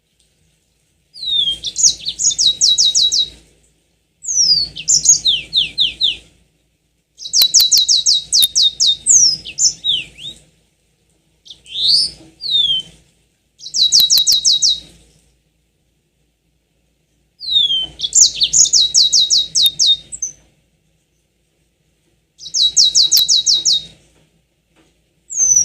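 Yellow-fronted canary (Mozambique canary) singing in short phrases of rapid high trills mixed with down-slurred whistles, about seven bursts separated by brief pauses.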